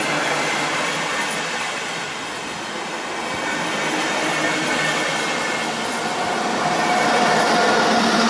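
A train running past on the tracks: a steady rush of wheels on rail. Thin high tones join in about six seconds in, and it grows louder near the end.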